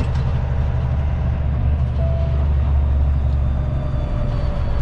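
Kenworth T660 semi truck's diesel engine running steadily, a low rumble while the truck is under way.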